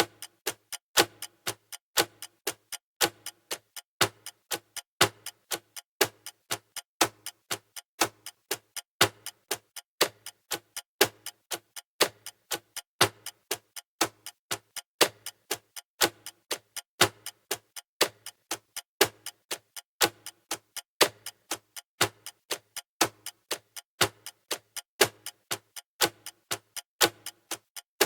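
Clock ticking sound effect: a steady, evenly spaced tick-tock, a louder tick about once a second with softer ticks between, marking the countdown timer's seconds.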